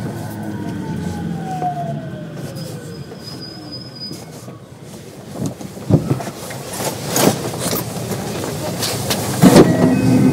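Inside a JR West 521 series electric train as it brakes for a station. The Toshiba IGBT-VVVF inverter whine falls in pitch over the first few seconds. Knocks and clatter from the wheels and rails follow, loudest near the end as the train slows to a stop.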